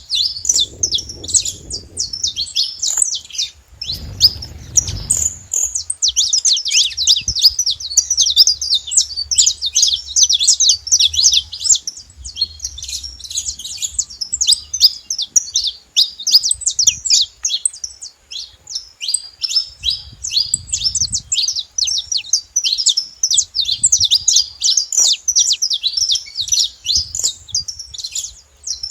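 Saffron finches singing, a dense, unbroken run of rapid high chirping notes. A brief low rumble comes in about four seconds in and again near twenty seconds.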